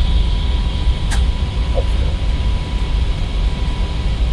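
Airbus A320neo flight deck noise in the climb: a steady, loud low rumble of airflow and engines with a constant hiss, broken by a single short click about a second in.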